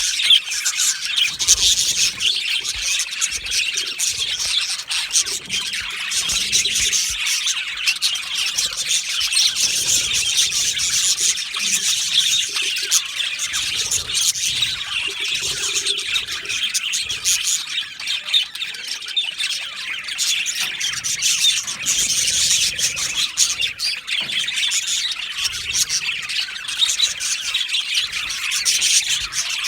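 A flock of budgerigars chirping and chattering continuously, many birds at once in a dense, unbroken warble.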